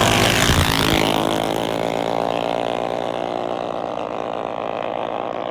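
Minibike engine running steadily, its sound slowly fading, with a short rush of noise about half a second in.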